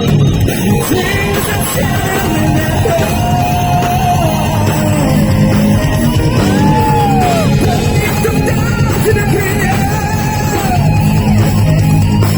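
Live heavy metal band playing loud, distorted rock, with a drawn-out melodic lead line that bends up and down over the dense rhythm section.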